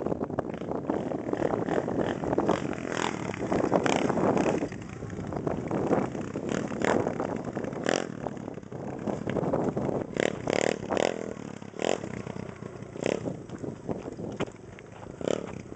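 Demon X 110cc pit bike's small single-cylinder four-stroke engine running and revving in repeated uneven bursts.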